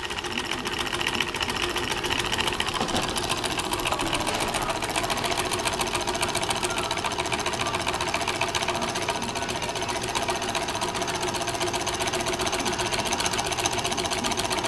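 Wiggers model Stirling hot-air engine running steadily, its levers, connecting rods and crank making a rapid, even mechanical clatter.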